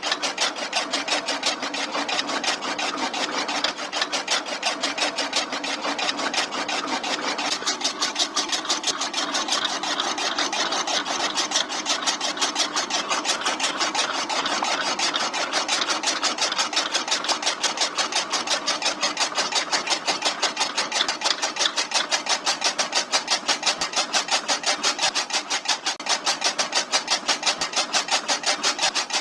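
Small electric motor running a homemade model chaff cutter, whirring steadily with a fast, even clatter.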